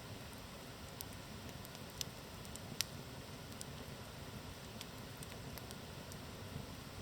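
Wood campfire crackling, with scattered sharp pops over a steady low hiss; the loudest pop comes nearly three seconds in.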